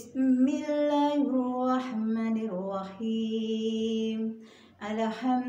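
A woman's voice chanting the Arabic invocation 'Bismillahirrahmanirrahim' in long, drawn-out melodic notes, with a short breath break near the end.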